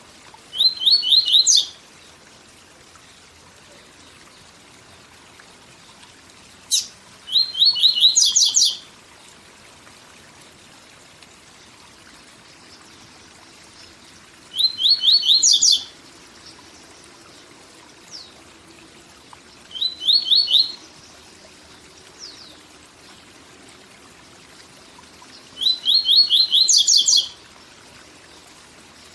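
Papa-capim seedeater singing its 'tui tui zel zel' song: five short phrases several seconds apart, each opening with a sharp note and running into a fast string of repeated high notes. A steady waterfall rush runs underneath.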